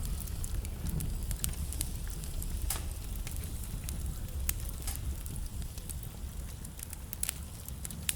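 Wood fire burning in a fireplace: irregular crackling with a few sharper pops, over a steady low rumble of the flames.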